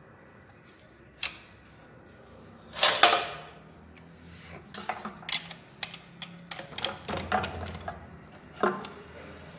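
Hand tools clinking, tapping and scraping on metal as the tappet (valve) clearance of a single-cylinder four-stroke diesel engine is adjusted: one louder scraping clatter about three seconds in, then a run of quick clicks and knocks.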